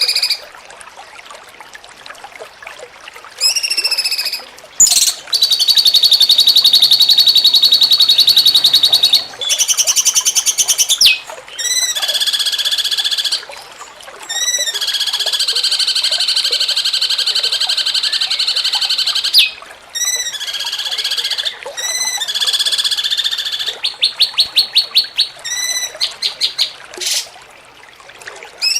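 Cucak cungkok songbird singing: loud rapid buzzing trills of several seconds each, alternating with series of short arched whistled notes, with brief pauses between phrases. The longest and loudest trill comes about five seconds in.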